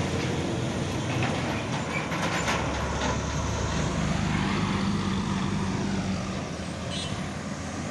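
Road traffic with heavy vehicles passing: a steady low engine drone, with one vehicle's engine and tyre noise swelling and then fading away about halfway through.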